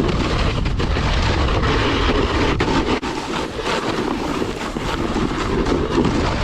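Snowboard riding at speed: wind rushing over the microphone with the board's edges scraping and carving over snow, a steady noisy roar with brief scrapes throughout.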